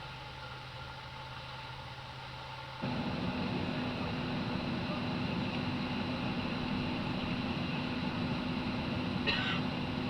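Steady airliner cabin noise inside a Boeing 737-800 on the ground, a hum from the aircraft's air and ventilation systems. About three seconds in it jumps suddenly louder and fuller, with a steady low drone, and near the end there is a brief higher-pitched sound.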